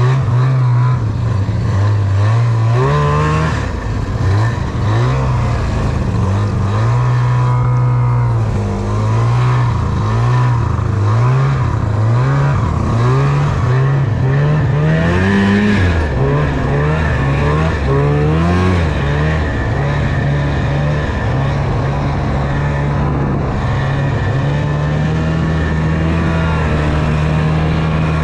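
Snowmobile engine running while being ridden, its pitch rising and falling over and over with the throttle, then holding steadier for the last third or so.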